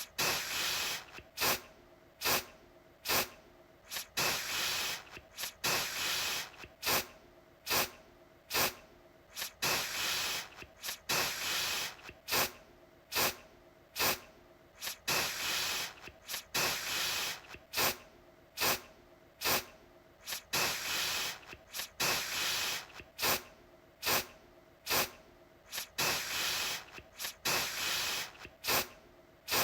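Aerosol deodorant can spraying in repeated bursts of hiss, about one a second, mixing short sharp puffs with longer sprays of about a second.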